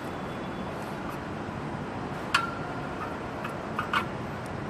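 A sharp metallic clink with a short ring about two and a half seconds in, then a few light ticks near the end: steel flywheel bolts and washer being handled and set in place on the engine's crankshaft.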